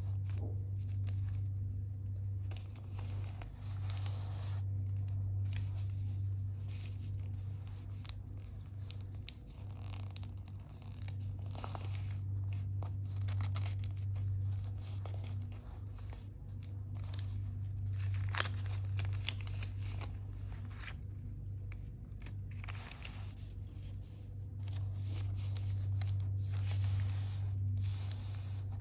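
A sheet of paper being folded and creased by hand: irregular rustling and crackling as folds are pressed down, over a steady low hum.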